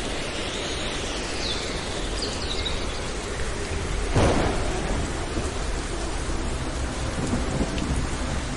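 Thunderstorm: steady rain, with a sudden crack of thunder about four seconds in that rumbles away over the next second or so.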